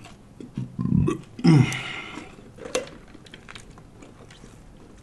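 Close-up chewing and mouth sounds of someone eating a sub sandwich, with two short low voiced sounds about one and a half seconds in, the second falling in pitch, then quieter chewing clicks.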